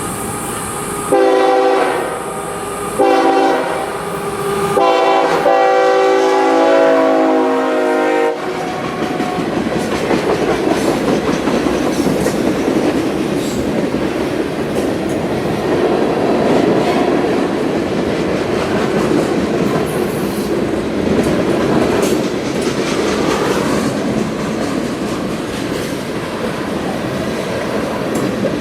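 CSX freight locomotive's multi-chime air horn sounding three blasts, the third the longest, then the train rolling past with steady rumbling and wheels clattering on the rail.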